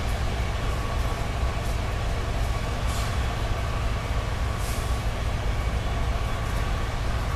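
Steady low rumble of a distant Amtrak passenger train moving along the line, with two brief hisses about three and nearly five seconds in.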